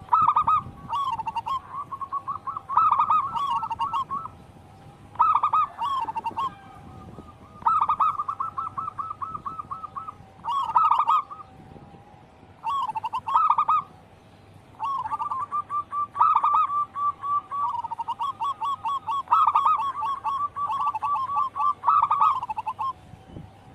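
Zebra doves (perkutut) cooing: repeated phrases of rapid, rolling coo notes, with longer runs in the second half.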